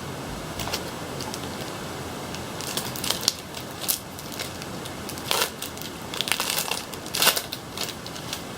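Foil wrapper of a Pokémon trading card booster pack crinkling and tearing as it is opened, in a run of short, irregular crackles over a steady background hiss.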